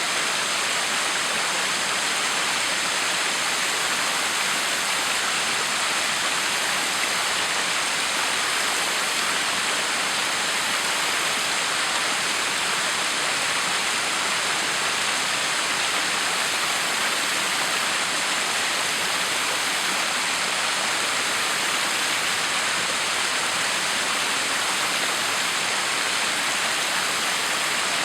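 Backyard waterfall: water falling and splashing in a steady, unbroken rush.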